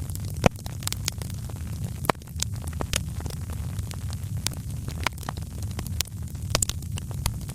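Wood fire crackling in a fireplace: irregular sharp pops and snaps, a few a second, over a steady low rumble of the flames. One louder pop comes about half a second in.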